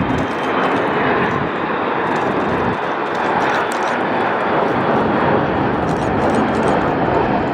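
Airplane engine noise from an aircraft flying by, loud and steady.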